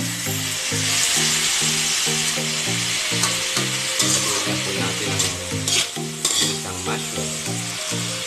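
Wet mushrooms sizzling and being stir-fried in a metal wok with sautéed garlic and onion. A few sharp scrapes and knocks of the spatula against the wok come in the middle. Background music with a steady rhythm of low notes plays underneath.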